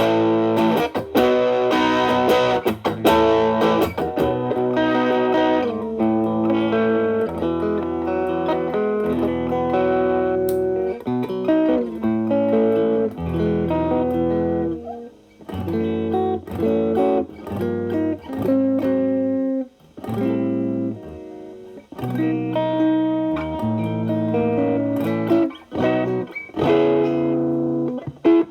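Telecaster electric guitar played through a stacked MXR Distortion+ and Boss SD-1 into a Marshall Valvestate amp's clean channel, with the guitar's volume rolled back to clean up the drive. It plays chords and single-note lines, with a couple of brief drops in the playing around the middle.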